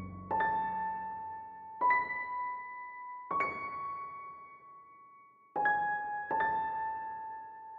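Slow background music of single piano notes, struck one at a time about every one to two seconds, each ringing out and fading.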